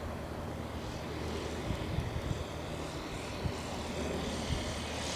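Electric Extra 330LX model airplane with a 2.7 m span flying at a distance, its motor and propeller a faint, steady hum.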